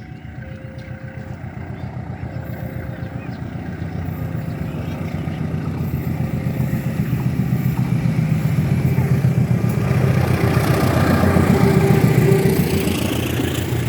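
Diesel locomotive of a passenger train approaching, its engine drone growing steadily louder and peaking near the end.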